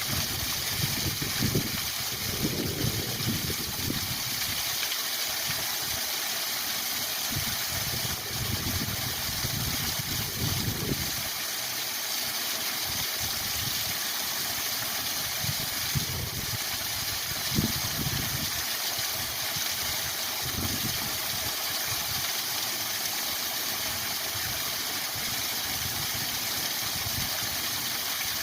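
Waterfall rushing steadily, with irregular low rumbles swelling and fading in the first half.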